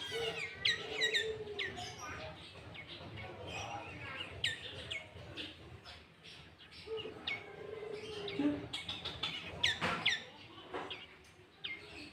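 Sooty-headed bulbul (kutilang) singing: a string of short, sharp whistled chirps, many sweeping quickly down in pitch, scattered through with brief gaps.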